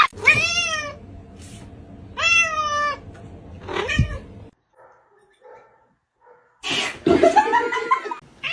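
A domestic cat meowing: three short meows about a second and a half apart, then after a pause a longer, rougher yowl near the end.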